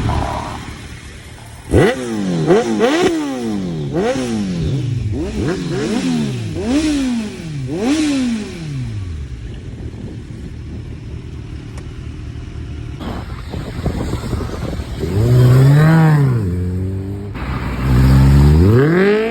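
A vehicle engine being revved: about seven quick sharp blips of the throttle, each rising and falling in pitch. After a lull come two longer, louder revs near the end.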